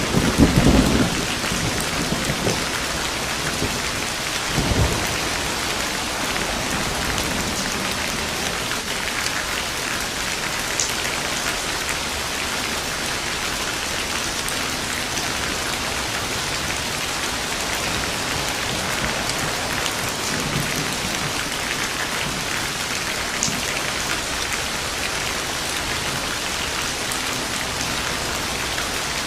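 Steady rain falling, with thunder: a loud thunderclap rolling off in the first second or so, a shorter peal about five seconds in, and faint low rumbles later on.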